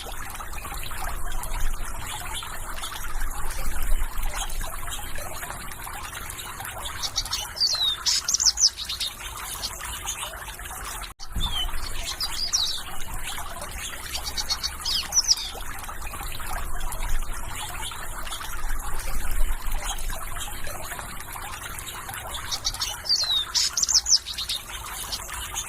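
Running water trickling steadily, with small birds chirping in short, high phrases several times over it. The sound cuts out for an instant about eleven seconds in.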